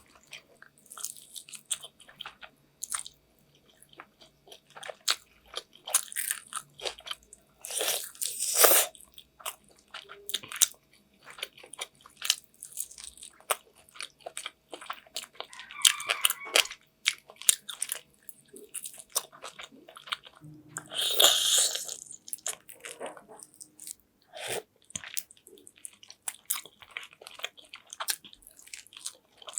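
A person eating chicken afritada close to the microphone: irregular bites, chewing and wet mouth smacks, with a longer, denser stretch of chewing noise about two-thirds of the way through.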